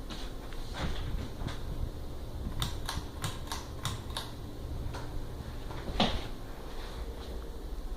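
Harbor Breeze Barnstaple Bay ceiling fan running with a low steady hum. Sharp clicks come over it: a quick run of about seven near the middle, and one louder knock about six seconds in.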